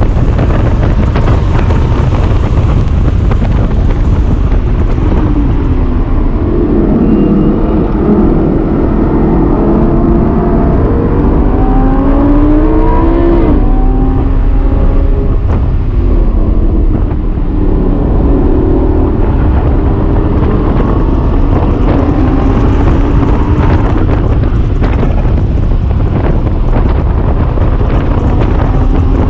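Lamborghini Gallardo LP570-4 Superleggera's 5.2-litre V10 heard from inside the cabin at high revs on track, its pitch falling under braking and downshifts into a slow corner, then climbing again as it accelerates hard through the gears. Steady wind and road noise run underneath.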